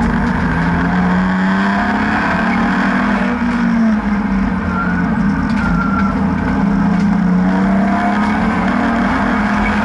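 BMW N52B30 3.0-litre naturally aspirated straight-six in an E36 track car, running hard under load with tyre and wind noise. The engine note climbs, drops sharply about four seconds in, then climbs again.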